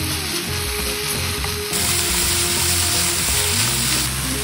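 Marinated meat strips and sliced shiitake mushrooms sizzling in a hot frying pan as they are stir-fried with chopsticks; the sizzle grows louder about two seconds in. Background music plays along.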